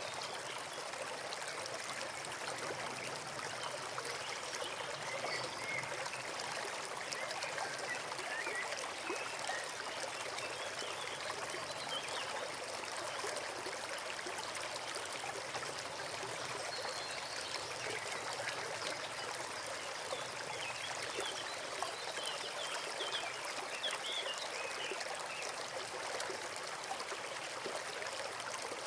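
Forest stream babbling steadily over stones, a constant rush of flowing water.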